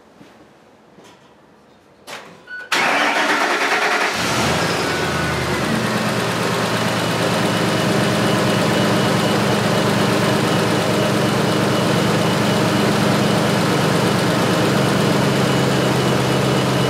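Ford F350 pickup engine cranked over by its starter during a starter test, catching after about a second and a half and settling into a steady idle. A few faint clicks come just before the start.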